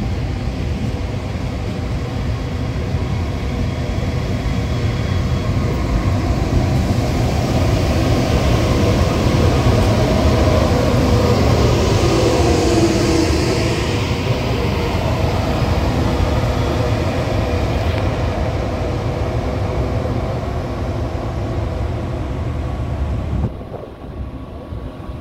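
Tze-Chiang express train hauled by an electric locomotive running into the station: a steady rumble of wheels on rail with faint steady tones from the running gear, growing louder to a peak about halfway through and easing off as it slows. The sound drops off abruptly near the end.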